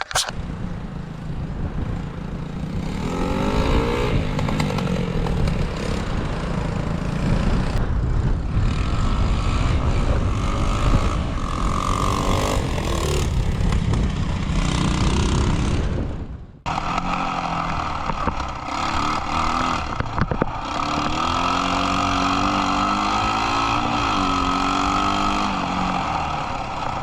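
1974 Honda XL 100's small single-cylinder four-stroke engine being ridden, its pitch rising and falling as it revs up and eases off. It cuts out abruptly about halfway through and comes straight back in.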